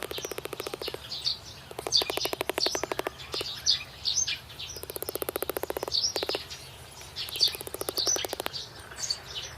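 Birds chirping in short, repeated calls, with several bursts of rapid rattling clicks about a second long each.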